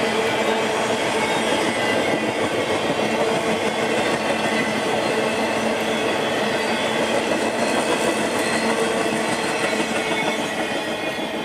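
Intermodal freight train rolling past, its flatcars loaded with semi-trailers, with a steady rumble of steel wheels on the rails that holds unbroken throughout.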